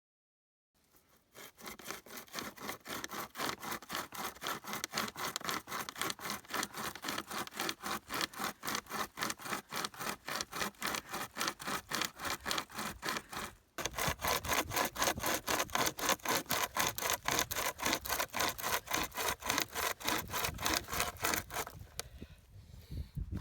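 Hand saw cutting through a section of dry pine, with rapid, even push-pull strokes. There is a brief break about two-thirds of the way through, after which the sawing resumes louder, then it dies away near the end.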